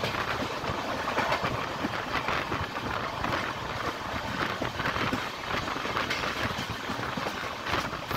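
A train in motion heard from on board: a steady running rumble with irregular clicks and knocks of the wheels on the rails.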